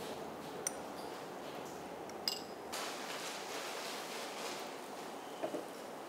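Adai batter frying in oil on a hot pan, a faint steady sizzle, with two short metallic clinks of a steel spoon against a bowl, at about one and two seconds in.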